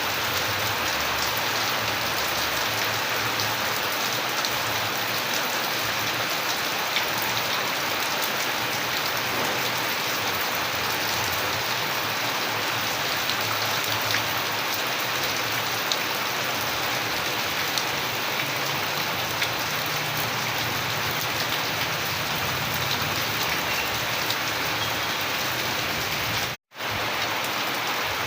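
Steady rain falling on a surface, an even hiss with many small drop ticks. Near the end it cuts out to silence for a split second, then resumes.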